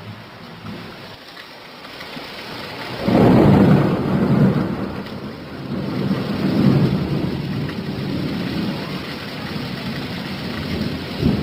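Steady rain with a loud roll of thunder that swells up about three seconds in, rumbles on with a second swell, and ends in a short sharp crack near the end.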